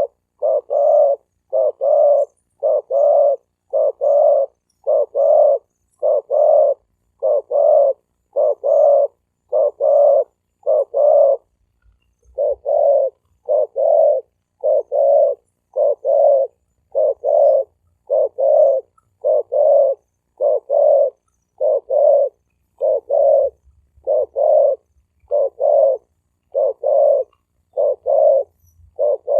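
Male spotted dove cooing, a fast, steady run of short low coos at about one and a half a second, with a brief break partway through; it is the rapid 'gù' cooing used to call in wild doves.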